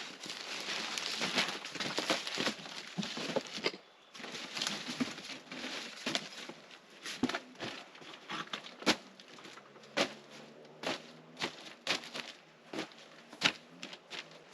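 Sausages frying in a pan: a dense sizzle for the first few seconds, then quieter frying with sharp, irregular pops of spitting fat.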